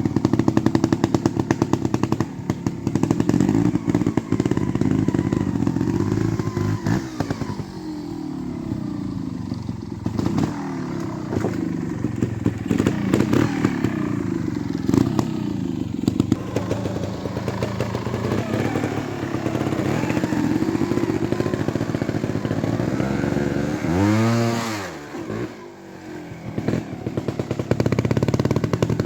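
Beta EVO trials motorcycle engine running at low speed, the throttle worked up and down so the pitch rises and falls repeatedly, with frequent short knocks. About 24 seconds in it gives one sharp blip of the throttle that rises and drops back.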